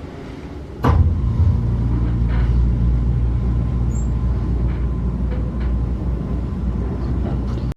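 Running noise inside a passenger coach of a diesel-hauled train: wheels on rail with occasional clicks. About a second in there is a sharp knock, and the sound jumps to a much louder, steady low rumble that holds until it cuts off suddenly near the end.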